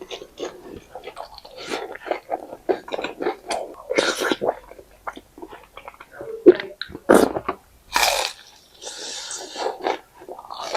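Close-miked chewing of food, with wet smacking and clicking mouth sounds throughout and a few louder bites or slurps.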